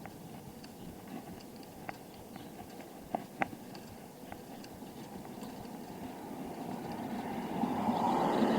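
Steady rolling and wind noise from a bicycle ride, with a few sharp clicks or rattles about three seconds in. The noise grows louder near the end.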